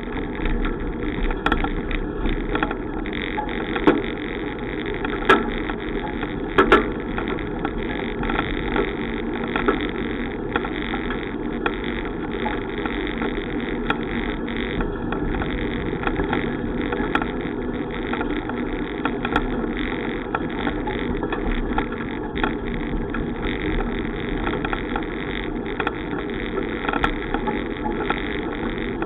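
Steady rushing noise of a moving bicycle, with a few sharp knocks a few seconds in.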